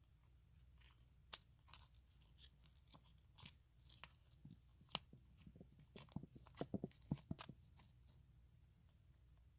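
Close-miked ASMR trigger sounds on a microphone: scattered small clicks and crackles, thickest and loudest from about six to seven and a half seconds in.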